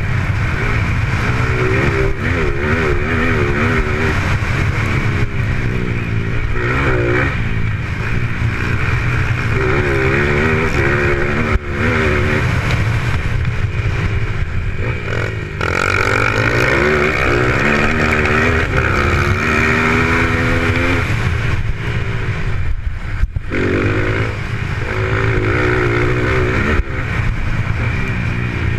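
Dirt-track racing motorcycle engines revving hard, their pitch rising and falling again and again as they accelerate and back off.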